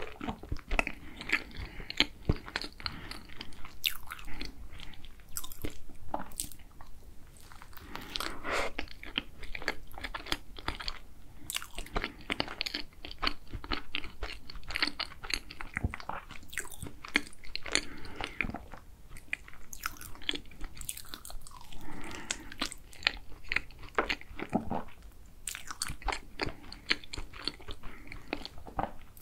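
Close-miked chewing and crunching of a yogurt egg tart, the crisp pastry shell crackling in many small, irregular clicks between bites.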